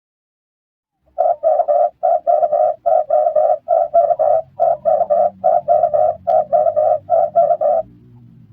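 Red turtle dove cooing: a quick, even run of short, hoarse coo notes, about three a second. It starts about a second in and stops shortly before the end.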